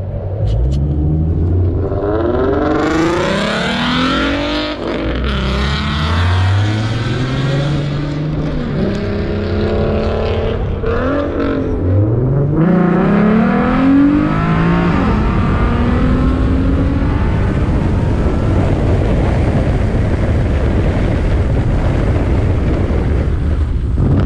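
Vehicle engine accelerating hard through several gears, its pitch climbing and dropping back at each shift. It then runs at a steady high pitch for the last several seconds.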